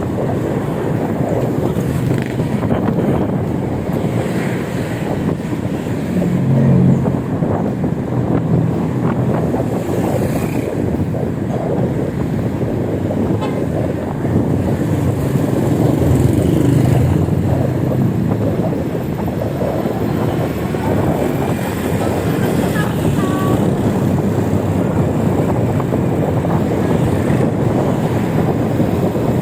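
Wind rushing and buffeting on the microphone of a phone carried on a moving e-bike, over steady road noise.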